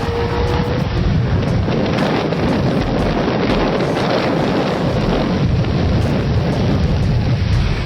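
A car's 5.0-litre engine running, with a slowly rising engine tone that fades out about a second in, then a loud, steady rumble with heavy wind buffeting on the microphone.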